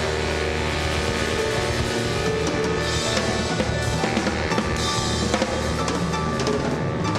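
Big-band jazz recording playing from vinyl, drum kit prominent with bass drum and snare over sustained bass and horn notes.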